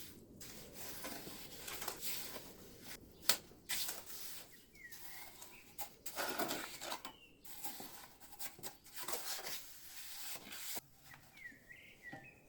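Scraping and rubbing of masonry work on stone, with scattered sharp knocks, one louder than the rest about three seconds in. A few short chirps come about five seconds in and again near the end.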